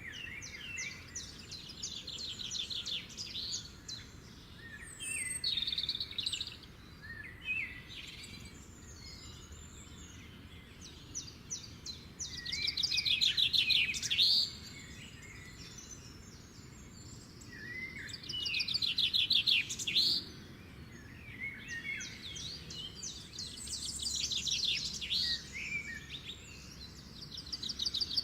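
Songbirds singing: repeated phrases of rapid trills and chirps, the loudest two bursts coming about halfway through and again a few seconds later.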